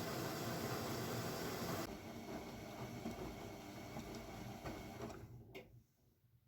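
AEG Lavamat W 1450 washing machine running loudly, then the noise drops suddenly about two seconds in to a lower rumble that dies away over the next few seconds, as when the drive cuts out and the drum runs down; a single sharp click comes near the end.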